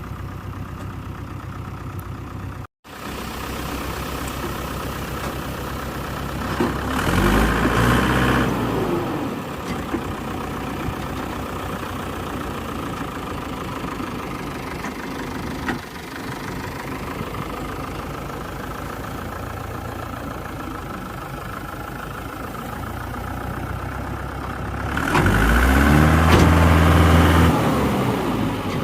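Diesel tractor engine idling steadily and revved up twice, each time rising and then falling back to idle.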